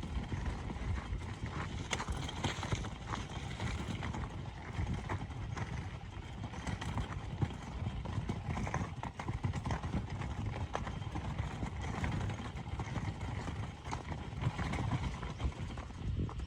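Wood campfire crackling, with irregular sharp pops and clicks over a low steady rumble.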